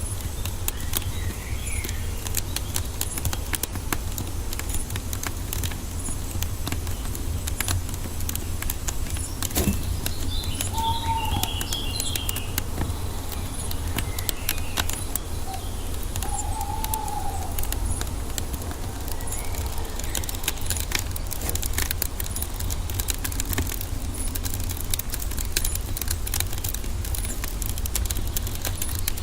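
Wood fire crackling and popping continuously over a low rumble, with birds chirping now and then, including two short calls about 11 and 17 seconds in.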